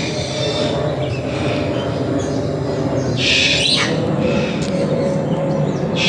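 Birds calling in a bird park aviary: a loud high call about three seconds in that drops in pitch at its end, and another near the end, over a steady low background noise.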